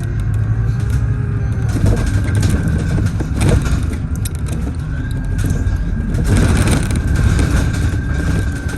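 Scania CK320UB Citywide CNG city bus on the move: a steady low engine rumble under a steady high whine. Louder noisy stretches come about three and a half seconds in and again around six and a half seconds.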